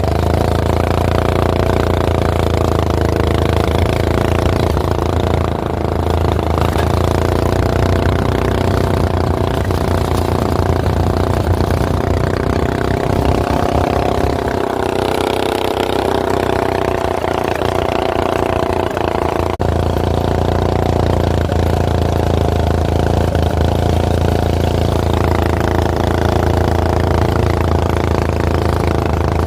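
Go-kart's Predator small gas engine running steadily, with a brief change in its note in the middle and a single sharp click a little before the two-thirds point.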